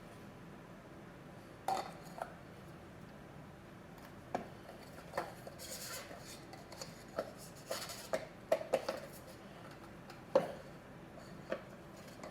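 Scattered light clicks, clinks and knocks of oil-filter parts and tools being handled as the filter housing, with its new filter and gasket, is put back together. There is a quick cluster of clinks about two thirds of the way in and one sharper knock soon after.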